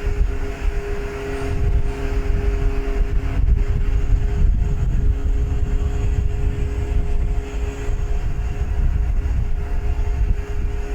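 Ship's engine running with a steady drone and constant hum, over a low, uneven rumble.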